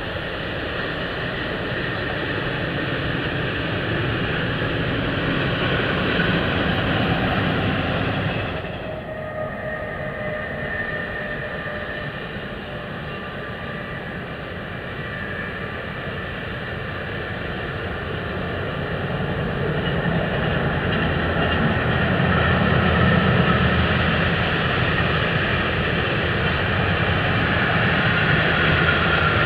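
Trains running on the line: a steady rolling rumble of wheels on rail. It drops back about eight seconds in as one train draws away, then grows louder over the last ten seconds as a freight train of car-transport wagons approaches.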